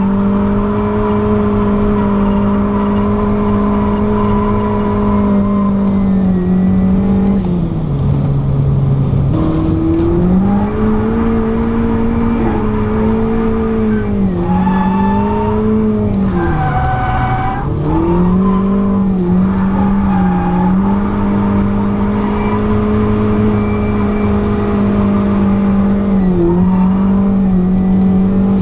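Turbocharged 1990 Mazda MX-5 Miata's 1.6-litre four-cylinder engine held at a steady, high note through a long drift, dipping and climbing back several times, with tyres squealing as the car slides, heard from inside the cabin.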